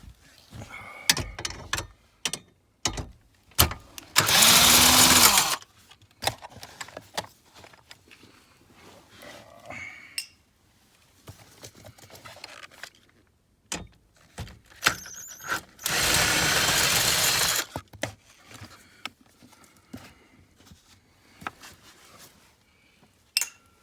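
Cordless power driver spinning a socket to back out the blend door actuator's screws, in two runs of about one and a half to two seconds, one about four seconds in and one about sixteen seconds in. Light clicks and knocks of handling the tool and screws come between them.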